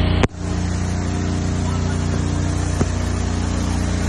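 Fire truck engine running steadily with an even hum. A sharp click comes about a quarter second in, with a brief drop in level, and a smaller click comes near the end.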